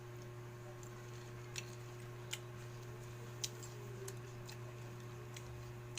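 Steady low hum with a few faint, sharp, irregularly spaced clicks.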